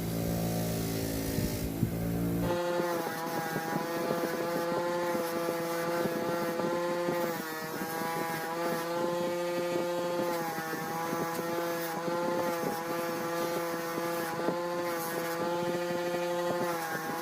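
A motor running with a steady hum. Its pitch steps up about two and a half seconds in, then wavers slightly.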